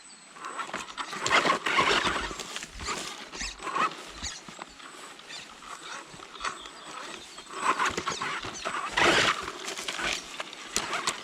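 104009 radio-controlled car driving over rocks and gravel, its wheels and chassis clattering in irregular bursts. The loudest rattling comes about a second in and again near the end.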